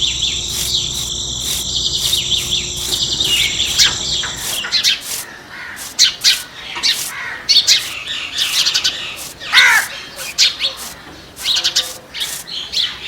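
Birds chirping in quick, irregular calls, over a steady high-pitched whine and low hum that stop about four seconds in.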